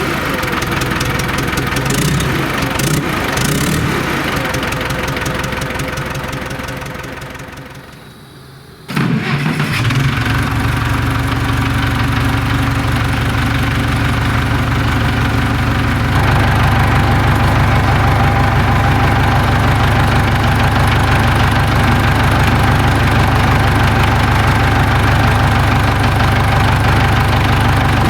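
International Harvester 270A backhoe's four-cylinder diesel engine running unevenly and dying away about seven seconds in, then starting again suddenly just after nine seconds and settling into a steady idle. It gets louder about sixteen seconds in.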